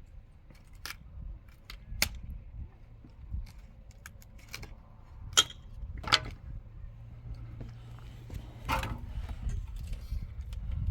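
Building work: a handful of sharp clinks and knocks, about five spread over the stretch, over a low rumble.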